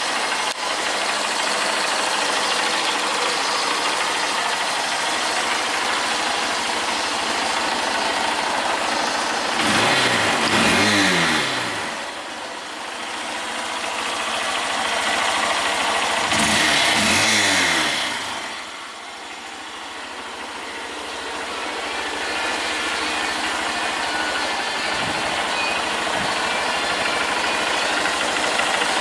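Honda CBF125's single-cylinder four-stroke engine idling, blipped twice with the throttle: the revs rise and fall back, about a third of the way in and again a little past halfway.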